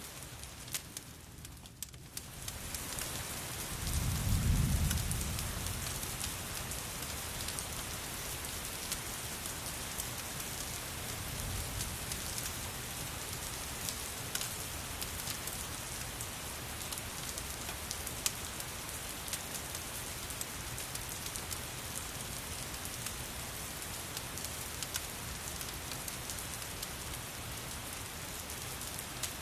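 Steady rain falling, with a low roll of thunder about four seconds in and a fainter rumble around twelve seconds. Scattered small crackles and ticks run through the rain.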